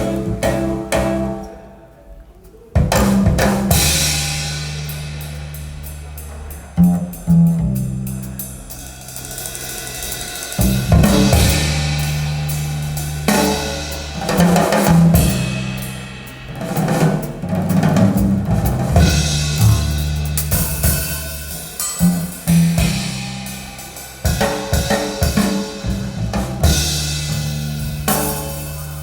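Recorded jazz played from a vinyl record through Sonus Faber floor-standing loudspeakers: drum kit with snare, bass drum and cymbals over deep sustained bass notes. The music drops briefly about two seconds in, then comes back in full.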